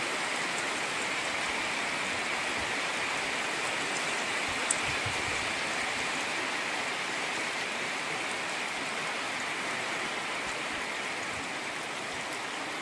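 Steady rain falling, an even continuous hiss, with a single small tick of a drop about halfway through.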